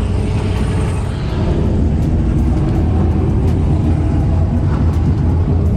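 Vehicle engine running with a steady low rumble, with a few faint clicks over it.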